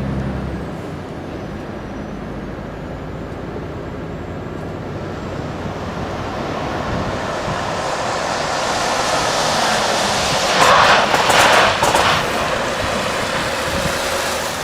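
Volvo FH tractor-trailer running on the road, its road and wind noise building over several seconds, then a loud burst of noise about ten and a half seconds in that lasts over a second before settling back.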